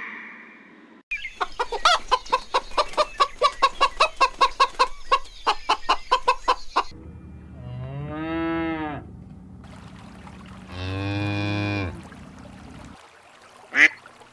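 A hen clucking rapidly, about four clucks a second, for around six seconds. Then a cow moos twice, two long low calls, and near the end come two short duck quacks.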